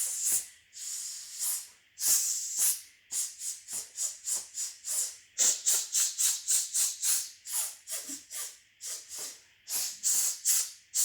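Voices making hissing 'sss' sounds in a copy-after-me vocal warm-up. A few longer hisses come first, then quick rhythmic runs of short hisses, each one cut off sharply.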